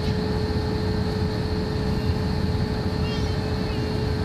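Steady airliner cabin noise from a landing flight: an even rumble and rush of air with a constant hum running through it.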